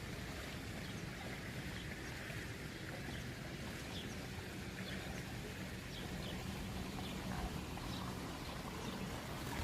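Steady outdoor background noise with a low rumble, and faint, scattered bird chirps over it.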